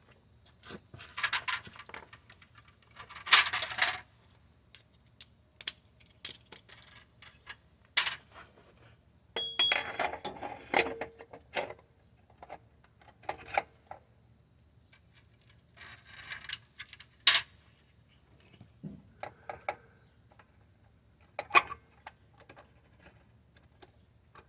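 Scattered metallic clinks and rattles with a few sharp clicks, coming at irregular intervals, over a faint low hum. No steady engine or exhaust note is heard.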